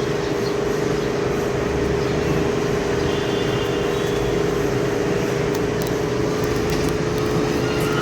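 Steady mechanical hum: a constant mid-pitched tone over an even hiss, with a few faint clicks.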